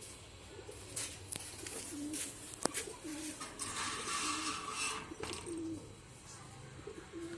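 Bird calls: a string of about five short, low notes spaced a second or so apart, with a longer harsh, hissing call about four seconds in and a few sharp clicks early on.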